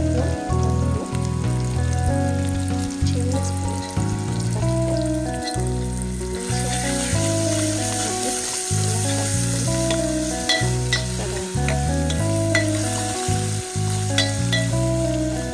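Chopped green chillies, onions and curry leaves sizzling in hot oil in an aluminium pot, the sizzle growing louder about six seconds in. A steel ladle clinks against the pot as it stirs, over background music with a melody and bass.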